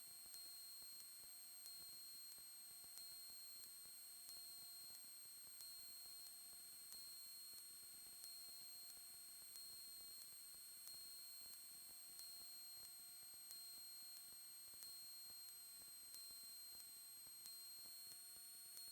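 Near silence on a radio and intercom audio feed: faint electrical hiss with steady high-pitched whines and a soft tick repeating about every second and a bit.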